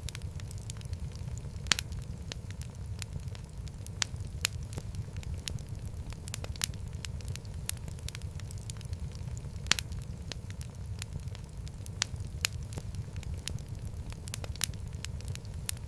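Fireplace fire burning with a steady low rumble and irregular sharp crackles and pops, a few louder snaps standing out, among them one about 2 s in and another near the middle.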